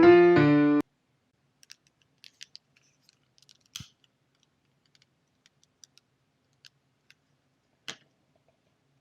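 Background music of piano chords stops under a second in. It is followed by faint, irregular small crackles and pops from a burning homemade bonfire candle, two of them louder, around four and eight seconds in.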